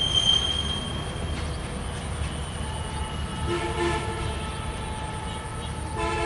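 Passenger train pulling away along curved track with a low running rumble: a single high wheel squeal fades out about a second in. Around the middle and again near the end a distant multi-tone train horn sounds.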